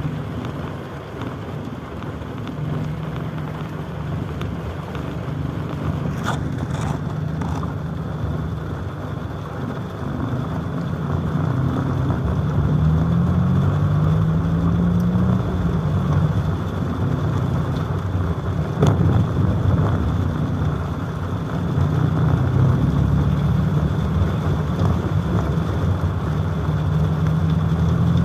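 Motor vehicle engines running, their pitch shifting up and down over a steady background noise, with a few sharp clicks.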